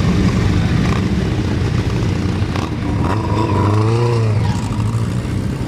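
Classic motorcycle engine running steadily, with a pitch that rises and then falls about four seconds in.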